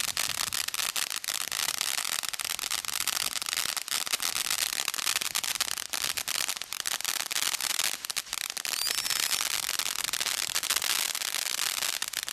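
Garden firework spraying sparks: a steady hiss with dense crackling, dipping briefly about eight seconds in.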